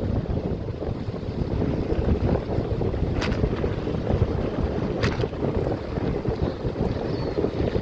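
Wind buffeting the microphone of a camera carried on a moving bicycle, a steady low rumble, with two sharp clicks about three and five seconds in.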